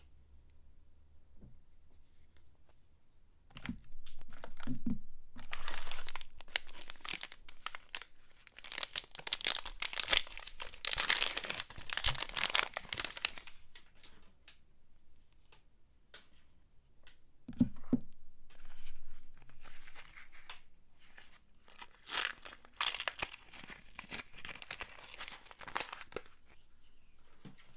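A soap wrapper being torn open and crinkled by hand. The rustling comes in spells and is loudest in the first half.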